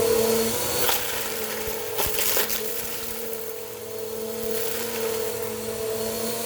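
Bissell PowerForce Compact vacuum running with a steady hum while picking up crunchy debris, with crackling clicks about a second in and again around two seconds. The motor's pitch sags slightly as the debris loads it.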